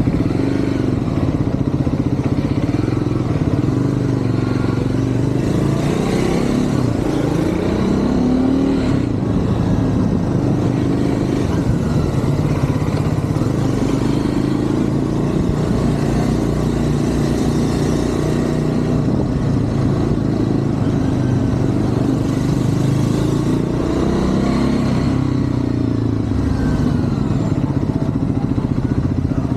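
Triumph Scrambler 400 X's single-cylinder engine running under way on a ride through city streets, its pitch rising and falling again and again as it accelerates and eases off, with traffic noise around it.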